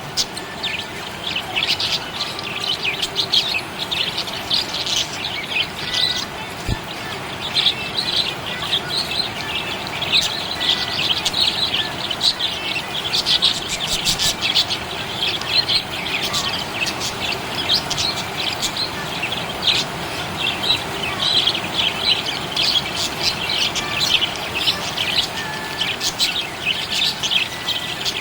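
Budgerigars chirping and chattering without pause in a dense stream of quick, high chirps.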